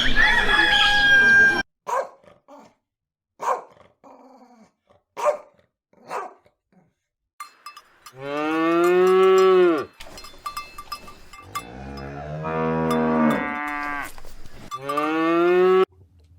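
A cow mooing three times, each a long call that rises and falls in pitch, the second and third close together near the end. In the first second or so, a dog whines and yelps in high gliding notes.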